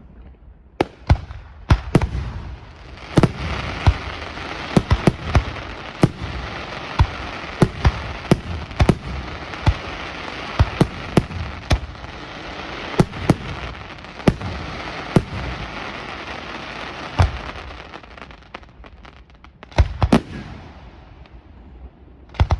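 Aerial fireworks display: shell bursts going off one after another, over a dense, steady crackle that fills the middle of the stretch and thins out over the last few seconds.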